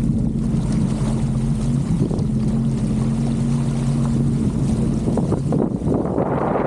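Sea-Doo GTX 230 jet ski engine running at a steady low speed, with wind buffeting the microphone and water noise over it. Near the end a rush of wind or spray briefly covers the engine.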